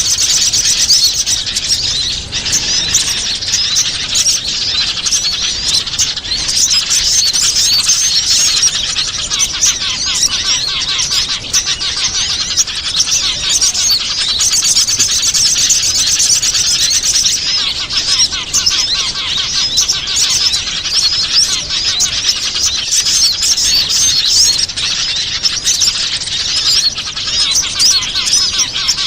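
Dense chorus of many small birds chirping and twittering at once, a constant mass of rapid high chirps and trills: a bird-lure recording used to draw in wild small birds.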